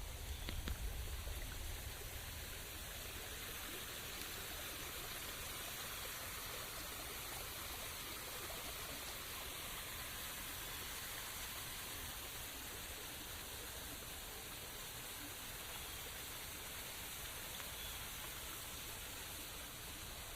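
Steady rain: an even hiss of falling water with no single drops standing out. A brief low rumble sits under it in the first second or two.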